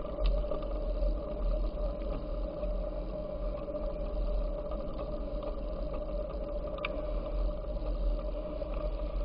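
Wind rumbling on the microphone and the steady rolling noise of a bicycle in motion, with a steady hum and two brief clicks, one just after the start and one about seven seconds in.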